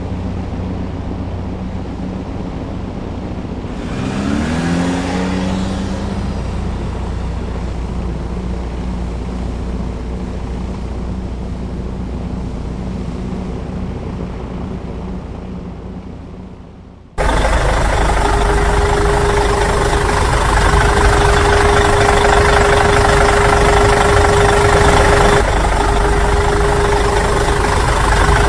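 A vehicle engine running steadily, revving up about four seconds in, then fading down. At about seventeen seconds it cuts suddenly to a louder, harsher machine noise with a steady whine.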